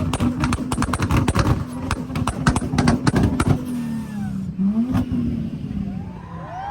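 Car engine held at high revs with a rapid string of exhaust pops and crackles. The crackling stops about three and a half seconds in, and the engine note dips and climbs again, with one last pop a second later.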